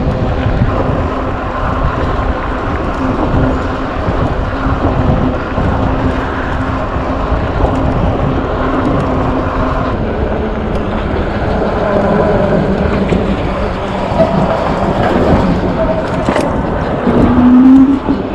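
Wind buffeting the microphone and tyre noise from a moving Engwe Engine Pro 750 W e-bike, with a steady hum from its hub motor that drops in pitch about ten seconds in. Near the end a brief, louder rising whine.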